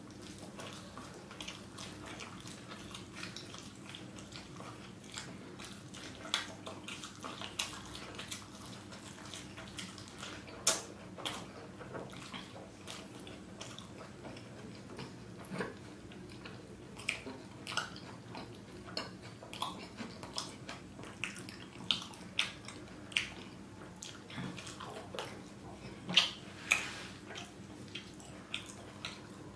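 Close-miked sounds of a man biting into and chewing a large tortilla wrap: irregular short clicks and smacks of the mouth at work, over a faint steady hum.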